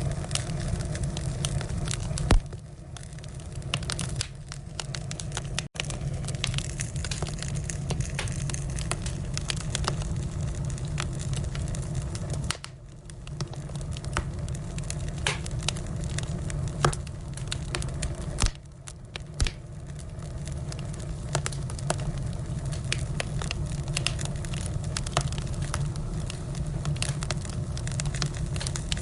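Firewood burning, crackling with frequent sharp pops, over a steady low rumble.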